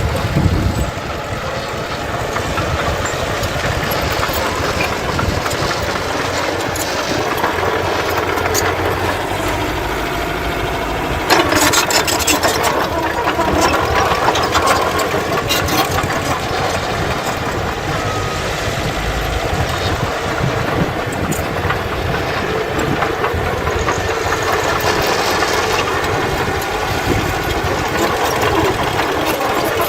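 Diesel engines of earthmoving machinery running steadily, with a sudden louder rush of noise about eleven seconds in.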